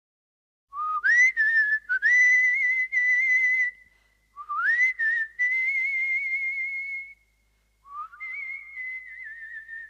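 A person whistling: three long notes, each sliding up from low into a high held note with a slight waver, the last one softer.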